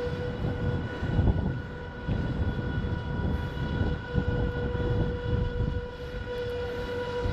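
A car driving slowly away, its low rumble rising and falling, over a steady high whine.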